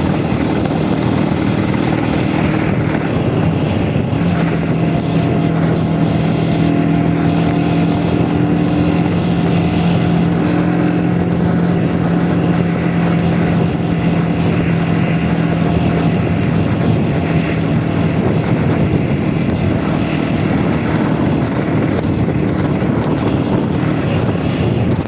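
Aprilia Tuono 125's single-cylinder engine running at a steady pitch while riding, under a steady rush of wind noise.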